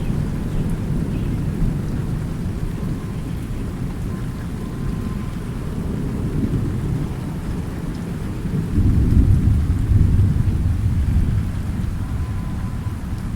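Rain falling steadily under a continuous low rumble of distant thunder. The thunder swells into a louder, deeper roll about nine seconds in, then eases back.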